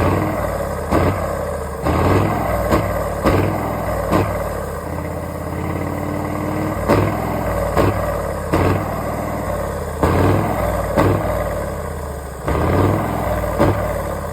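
Heavy truck engines running and being revved, with sudden sharp sounds at irregular intervals of about a second.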